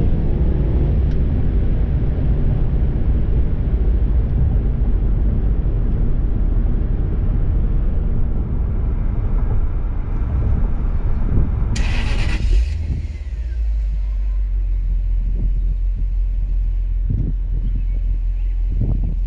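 Cabin sound of the 2003 Jaguar XJR's supercharged 4.0-litre V8 and tyres while cruising, a dense low rumble with road noise. About twelve seconds in a brief loud hiss, then the car's exhaust idling with a steady low rumble.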